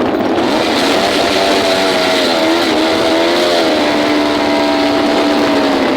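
Motorcycle engine held at high revs, a steady high note that wavers up and down a little around the middle, then settles and sags slightly near the end.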